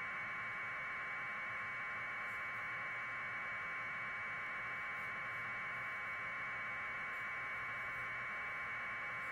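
Steady static hiss that stays the same throughout, concentrated in the middle of the range.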